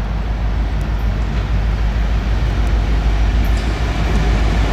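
Norfolk Southern freight train with SD70-series diesel locomotives passing close by: a steady, loud engine and train noise with a strong low rumble, growing slightly louder toward the end.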